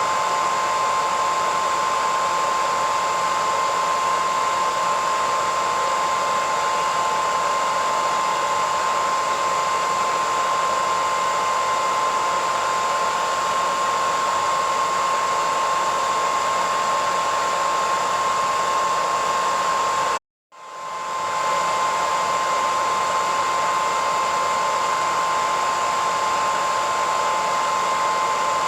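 Hair dryer running steadily: a rushing hiss of blown air with a strong steady whine. About twenty seconds in it cuts out for half a second, then swells back in.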